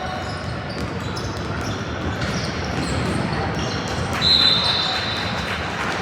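Basketball bouncing and sharp knocks on a gym court amid background voices, with one loud, high, steady squeal lasting under a second about four seconds in.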